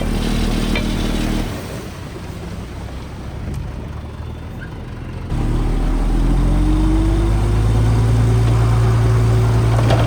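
Diesel engine of heavy earthmoving equipment running. About five seconds in, a louder engine sound comes in abruptly, rises in pitch as it revs up, then holds steady.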